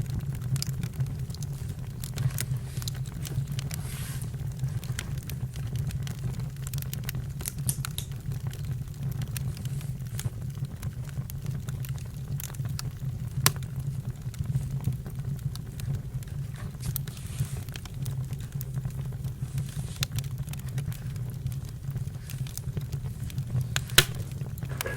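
Campfire crackling: a steady low rumble with scattered sharp pops and snaps, a louder pop about halfway through and another near the end.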